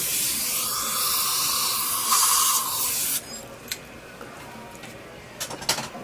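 Dental air-water syringe spraying in a steady hiss for about three seconds, then stopping suddenly. A few light clicks follow near the end.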